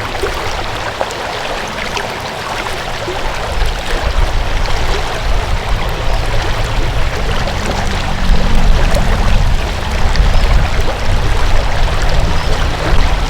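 Flowing stream water rushing steadily, with a deep low rumble that grows louder about halfway through.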